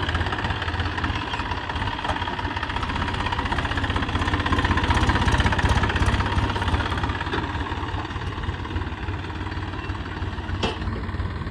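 An engine running steadily, getting a little louder partway through.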